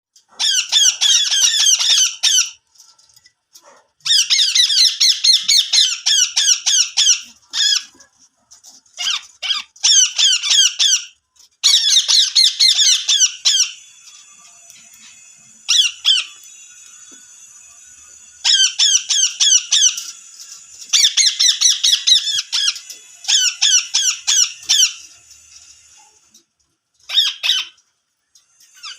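Ringneck parakeet calling: high-pitched, rapidly repeated shrill notes in bursts of one to three seconds, with short pauses between them.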